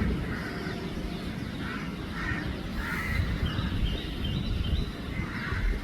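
Birds calling repeatedly in short harsh calls over a steady low rumble.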